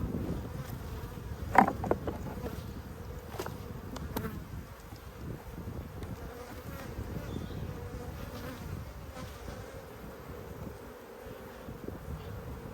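Honeybee colony buzzing steadily around an opened nucleus hive. A sharp knock comes about a second and a half in, followed by a couple of lighter clicks.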